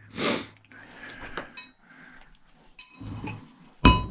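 Metal parts being handled during a cash register teardown: small clicks and faint clinks that ring briefly, then a loud sharp metallic clank with ringing just before the end. A short breathy rush of noise is heard near the start.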